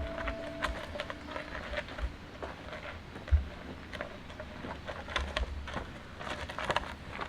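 Scattered light taps and clicks, irregular, with one dull thump about halfway through.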